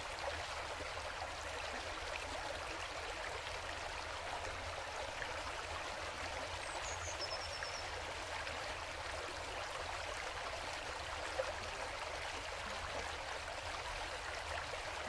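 Steady rush of running water, like a stream, unchanging throughout.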